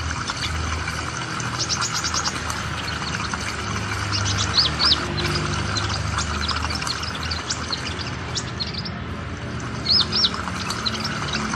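A small bird chirping: short, high notes in quick runs of several at a time, repeated every second or two over a steady low hum.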